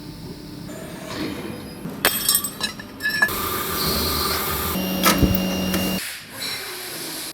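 Factory machinery running, with a burst of sharp metallic clicks and clinks about two seconds in, then a steadier machine run with a low hum; the sound changes abruptly several times.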